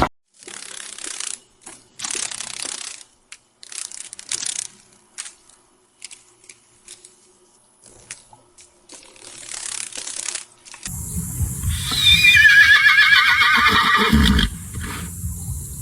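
Horse whinnying: one long, wavering neigh, the loudest sound, about twelve seconds in. It follows several short, quieter hissing bursts of noise.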